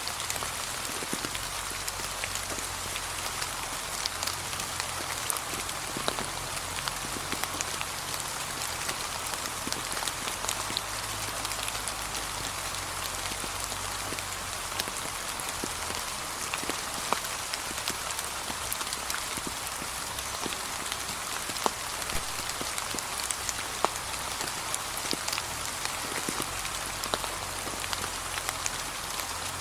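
Gentle rain falling steadily, with many separate drops ticking sharply over the even hiss of the shower.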